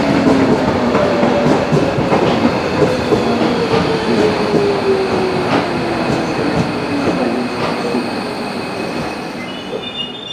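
Docklands Light Railway B2007-stock electric train pulling into a platform and braking. Its motor whine falls slowly in pitch as it slows, the wheels click over the rail joints, and the sound dies away, with a thin high brake squeal near the end as it comes to a stop.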